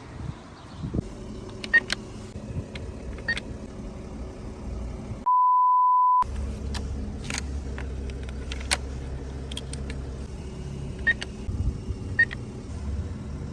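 A single steady beep tone, about a second long, about five seconds in, with all other sound blanked out while it plays, like an edited-in censor bleep. Around it, a low steady car rumble with scattered small clicks.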